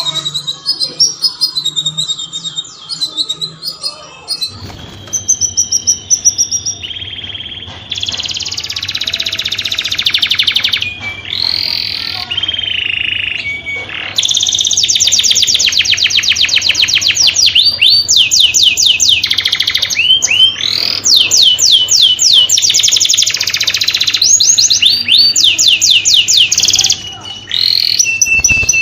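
Canary singing: long fast trills of rapidly repeated high notes, broken by sweeping rolls and short chirps. A faint steady low hum sits underneath from a few seconds in.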